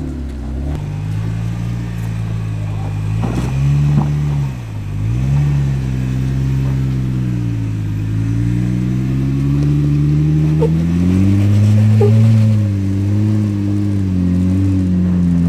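Off-road Jeep's engine revving under throttle, its pitch falling about five seconds in and then climbing higher before easing off near the end, with a few sharp knocks along the way.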